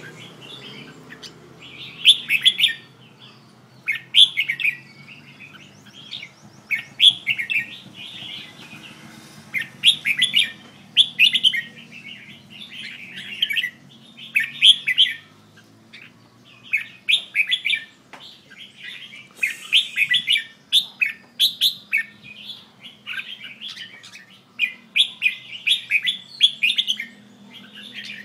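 Caged red-whiskered bulbul singing short, chirpy phrases, one every second or two.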